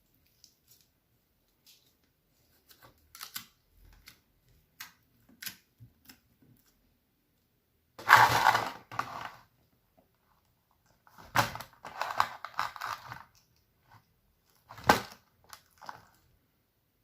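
Slime being handled and squished, making short crackles and pops, with louder crunchy bursts about halfway through, again a few seconds later, and near the end.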